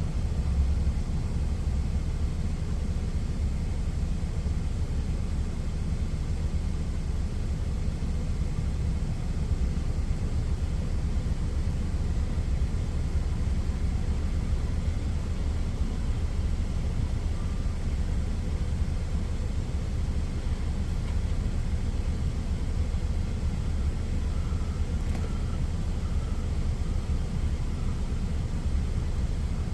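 Steady low rumble of an idling truck engine, unchanging throughout.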